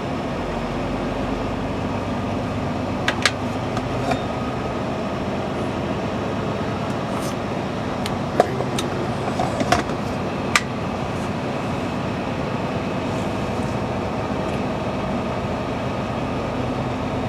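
Semi truck's diesel engine running steadily at low speed, heard from inside the cab, with a few sharp clicks and rattles a few seconds in and again around the middle.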